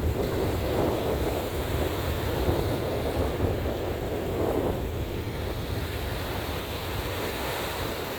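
Sea surf breaking and washing onto the beach, a steady rushing with wind rumbling on the microphone.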